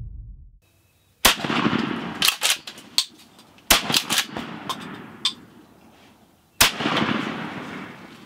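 Shotgun shots, each crack followed by a fading echo: a loud shot about a second in, a run of sharper, lighter cracks through the middle, and another loud shot near the end.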